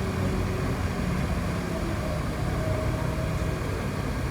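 City bus running along the road, a steady low engine and road rumble heard from inside the passenger cabin.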